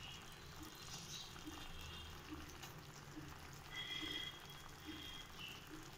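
Faint sizzle of chicken, onion and ginger-garlic paste sautéing in an aluminium kadai on a low gas flame. A brief high-pitched tone sounds about four seconds in.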